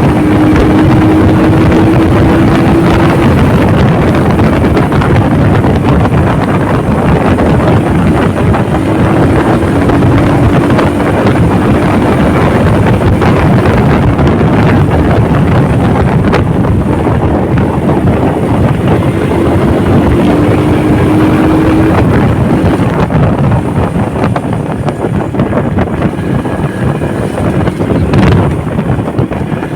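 A motorcycle riding at speed, with heavy wind rushing over the microphone. The engine note rises three times, each rise lasting about three seconds, as the bike accelerates.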